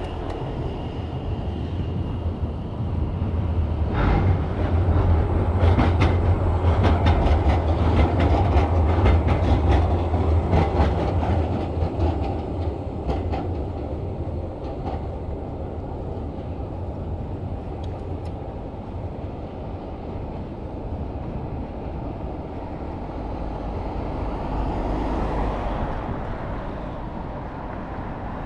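A rail vehicle passing close by: a low rumble that swells a few seconds in, with a quick run of sharp wheel clicks on the track, then fades away.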